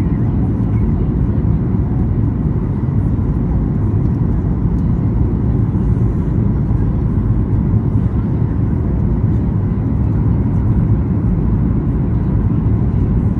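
Steady low roar of airflow and engines heard inside the economy cabin of a Boeing 737-8 MAX airliner in flight.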